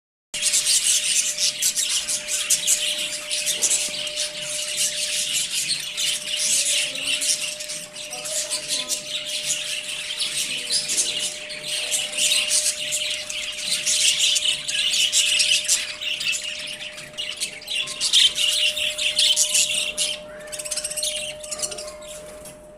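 A flock of budgerigars chattering and chirping continuously, many birds calling over each other, the chatter thinning out near the end.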